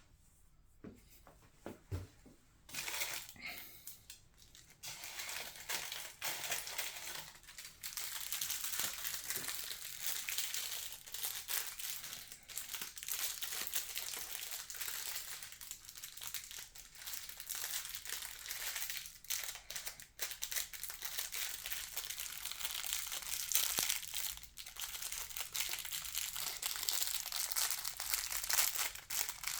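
Packaging crinkling and rustling as a 1:200 scale metal model airliner is unwrapped by hand, starting about three seconds in after a couple of soft clicks, and going on in uneven crackly runs.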